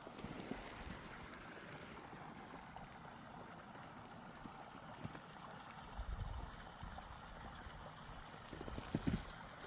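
Skis sliding over snow in a steady hiss, with wind buffeting the microphone in low rumbles about six and nine seconds in.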